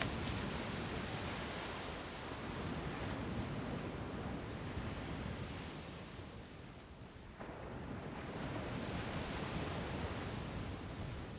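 Strong wind buffeting the microphone: a rough, rushing noise that rises and falls in gusts, easing off about six seconds in and picking up again a second or so later.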